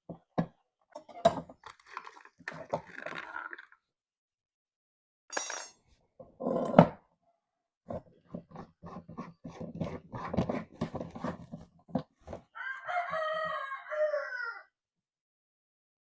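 A rooster crows once near the end, one call of nearly two seconds. Before it comes a run of sharp clicks and knocks.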